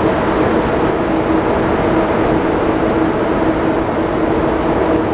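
ICE high-speed train pulling away through a station hall: a steady rumble with a low hum running through it.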